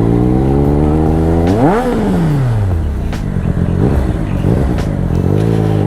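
Triumph Speed Triple RS's three-cylinder engine, breathing through an SC Project titanium exhaust, running under way. Its pitch climbs sharply in a quick rev about a second and a half in, then falls away over the next second before settling and rising again toward the end.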